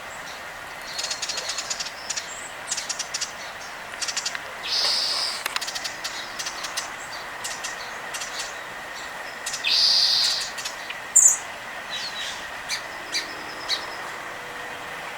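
Small songbirds giving many short, sharp chips and chirps, with a high chirp about eleven seconds in. Two brief rushing sounds come about five and ten seconds in.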